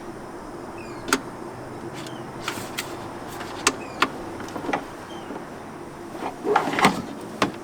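Chinese diesel air heater running its blower motor with a steady hum while trying to prime its fuel line, with irregular sharp clicks and knocks over it.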